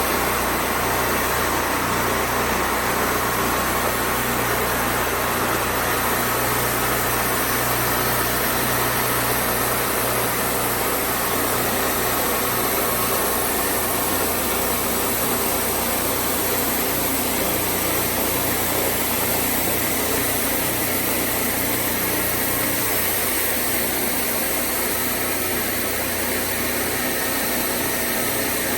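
Wood-Mizer band sawmill running steadily, its engine humming under an even, continuous noise.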